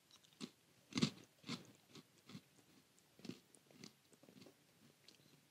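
A man biting and chewing a cracker: a series of faint, short crunches about every half second, the loudest about a second in.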